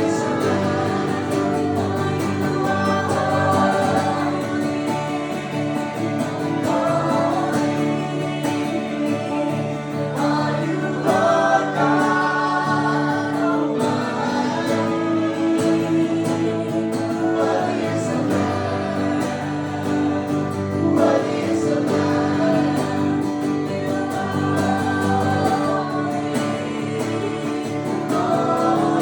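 Live acoustic worship music: voices singing a slow worship song over acoustic guitar.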